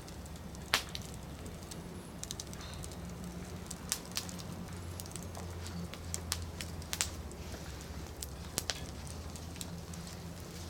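Firewood burning in a campfire, crackling with irregular sharp pops, the loudest about a second in, over a steady low hum.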